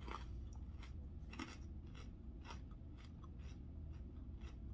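Faint crunchy chewing of salad: short, irregular crunches a few times a second over a low steady hum.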